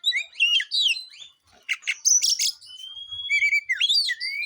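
Oriental magpie-robin (kacer) singing: a fast, varied run of clear whistles, quick slurred glides and short harsh notes.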